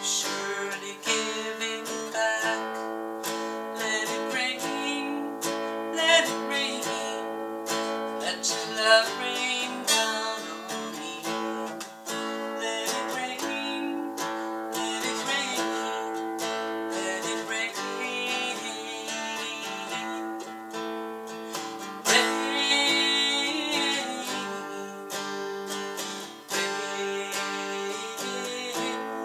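Acoustic guitar music, strummed and picked, in an instrumental passage of a song without vocals.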